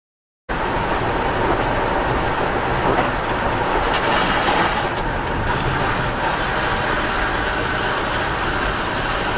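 Steady road and engine noise of a moving vehicle, starting abruptly after half a second of silence.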